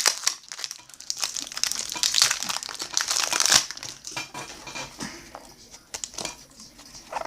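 Baseball card pack wrapper crinkling as it is opened: dense crackling for the first few seconds, then scattered small clicks and rustles as the cards are handled.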